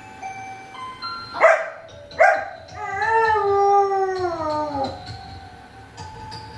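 German shepherd dog giving two short barks, then one long howl that drops in pitch as it ends, over soft background music.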